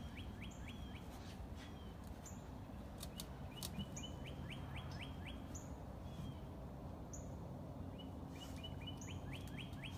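Birds chirping faintly: three runs of quick falling chirps, with a short high note repeating every second or two, over a faint low steady hum.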